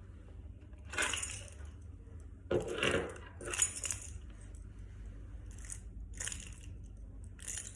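A bunch of keys jangled in short, separate shakes, about six times, each one a bright metallic jingle that stops quickly.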